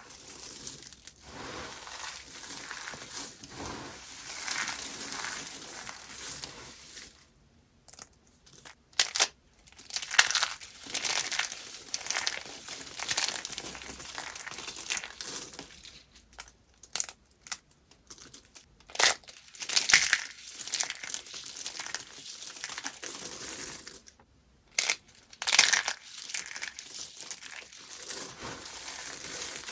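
Dry, brittle soap being crushed, crunching and crackling. It crackles steadily for the first several seconds, then breaks into separate sharp crunches with short pauses between them.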